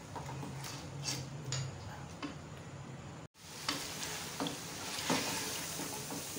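Mutton in yogurt masala frying in oil in a metal pot, sizzling while a wooden spatula stirs and scrapes it, with scattered clicks of the spatula against the pan. The yogurt's water is cooking off. The sound cuts out for an instant a little after halfway, and the sizzling is louder after that.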